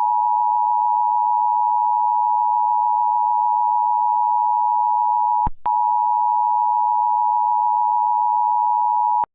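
Emergency Alert System attention signal: a loud, steady two-tone electronic tone. It breaks off for a moment with a click about five and a half seconds in, then resumes and cuts off abruptly near the end.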